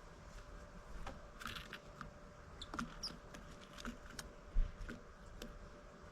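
Irregular small taps and clicks of great tits pecking at seeds, with a brief high bird note about three seconds in. A dull low thump a little past halfway is the loudest sound.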